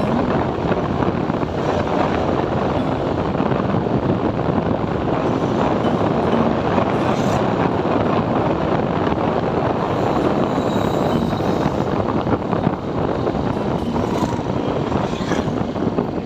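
Steady rush of wind and road noise from a motorcycle riding along a road, heard from on the moving bike.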